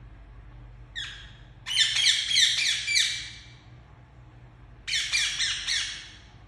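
Indian ringneck parakeet squawking: one short call about a second in, then two bursts of rapid, repeated harsh screeches.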